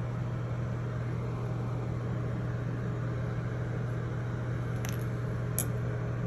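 Steady low hum with a hiss, and two sharp clicks about five and five and a half seconds in, from metal snips working at the plastic flow restrictor inside a shower head.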